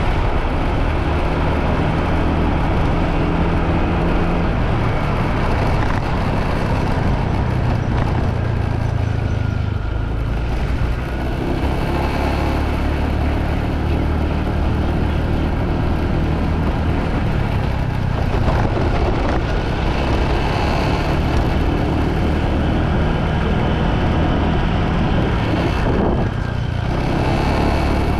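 Motorbike riding along a road: steady engine and road noise with a strong low rumble, easing briefly about ten seconds in and again near the end.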